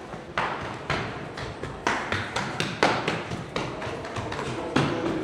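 Steps striking hard paving: a series of sharp, uneven knocks about twice a second.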